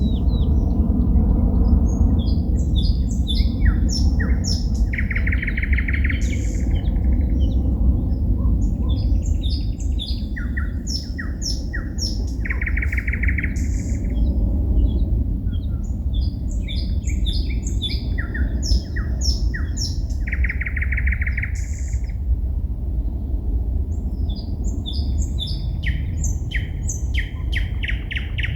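A songbird singing at night in separate phrases about every seven to eight seconds, each a run of varied high whistles and chirps ending in a dense, churring trill lasting about a second. A steady low rumble runs underneath.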